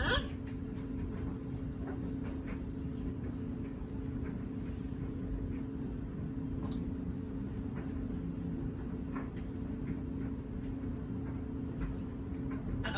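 Parrot eating, with faint scattered clicks and cracks of its beak on food and one sharper crack a little past halfway, over a steady low hum.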